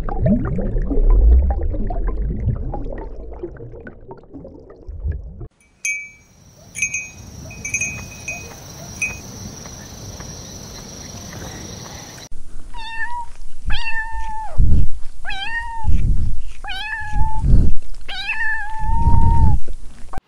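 A cat meowing repeatedly in the second half, about six short meows, each rising and then holding its pitch. Before that there is low rumbling noise, then a steady hiss with a few faint high chirps.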